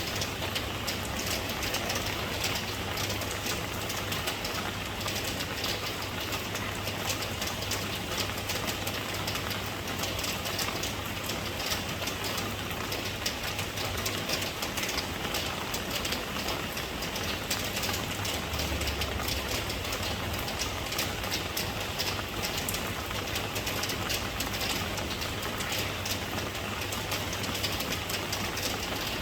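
Steady rain falling: a dense patter of drops blended into an even hiss, with a faint low rumble underneath.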